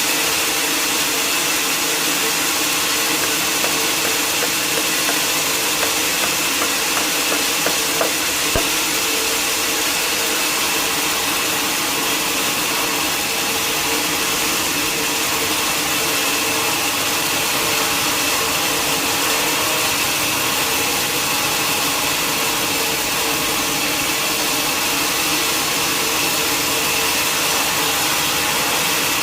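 Sawmill saw running steadily through a mahogany log, a constant mechanical noise with a steady high whine and a few faint clicks a quarter of the way in.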